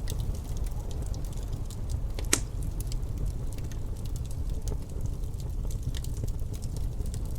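Wood fire in a fireplace crackling, with scattered small pops and one sharper pop a little over two seconds in, over a steady low rumble of wind.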